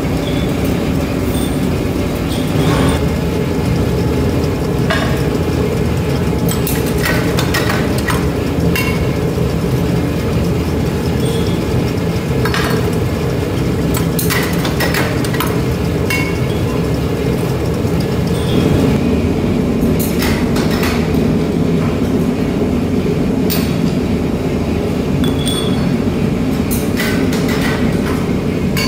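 Forging machinery running steadily, with irregular sharp metallic clinks and knocks of metal parts, some ringing briefly.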